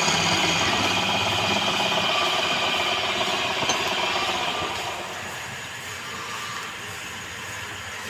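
Wood lathe running with a turning tool cutting the spinning wood, a steady hissing scrape over the machine's hum. The cutting noise eases off about five seconds in, leaving the quieter run of the lathe.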